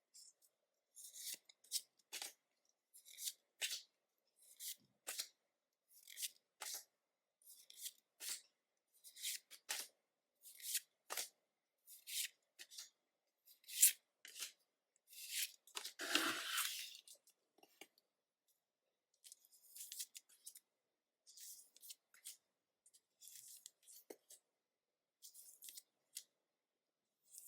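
Pokémon trading cards and booster pack foil being handled: a quiet run of short, dry swishes and clicks, about two a second, as cards are slid and flipped one after another, with one longer, louder crinkle about sixteen seconds in.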